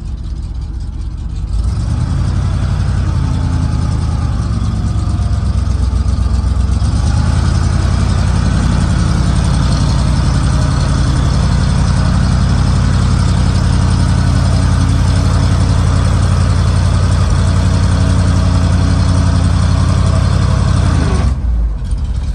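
1972 Chevrolet C60 truck's 366 V8 engine revved up and held at a steady higher speed, driving the PTO hydraulic pump to raise the dump box; it steps up again after a few seconds and drops back to idle near the end.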